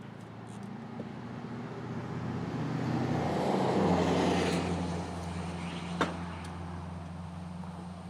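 A tractor loader's engine running, with its sound building to a peak about four seconds in and then easing back. A single sharp click about six seconds in.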